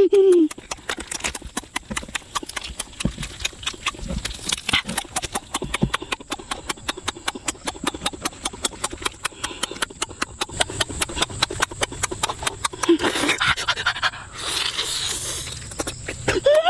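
A rapid, irregular run of sharp clicks and crackles, several a second, with a short rustling noise near the end.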